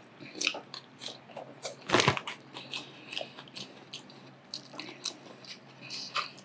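Close-up chewing and mouth sounds of a person eating ahi poke and rice, with scattered light clicks and scrapes as a spoon works in a ceramic bowl. One louder burst comes about two seconds in.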